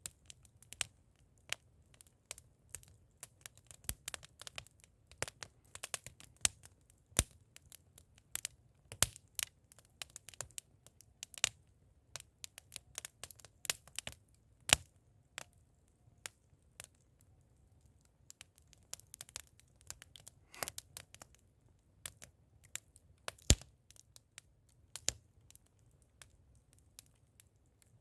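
Bonfire of firewood, coal and old tyres burning well, crackling with many irregular sharp pops, a few much louder than the rest, over a faint low rumble.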